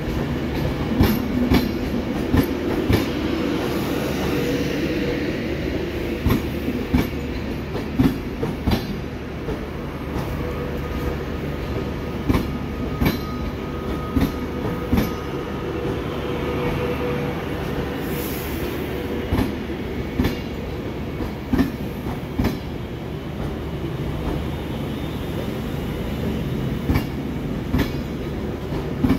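Avanti West Coast passenger train rolling past: a steady rumble of wheels on rail, with irregular sharp clicks as the wheels cross rail joints, and a faint steady whine.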